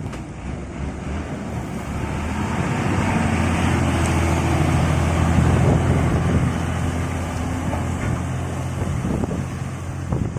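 DAF heavy truck's diesel engine driving past, growing louder to a peak about halfway through and then easing off, with wind buffeting the microphone.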